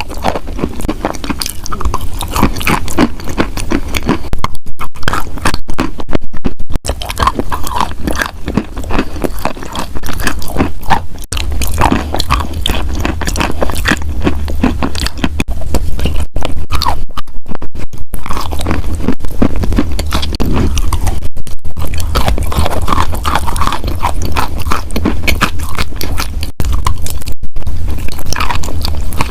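Wet chalk being bitten and chewed close to the microphone: a dense, irregular run of crunching and crackling, broken by a few brief gaps.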